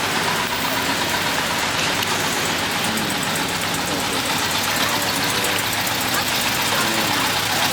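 Car meet ambience: car engines idling, with background chatter from people around.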